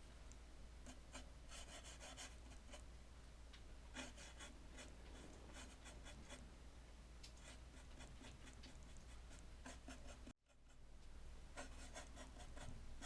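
Faint scratching strokes of a small paintbrush working on a surface, in short quick runs, over a steady low hum. The sound cuts out briefly about ten seconds in and then comes back.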